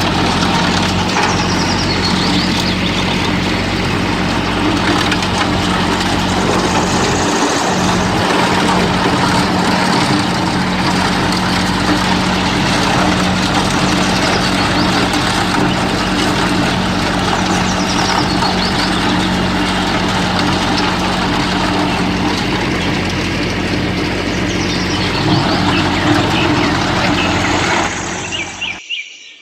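Engine running steadily with a constant low hum, cutting off suddenly near the end.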